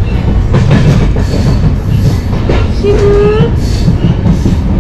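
Passenger train coach running along the track, heard from the vestibule by the door: a loud, steady rumble of wheels on rails with irregular knocks.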